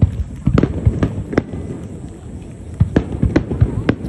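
Aerial firework shells bursting in an irregular series of sharp booms, several close together in the first second and a half and more in the second half, with a low rumble rolling on between the bangs.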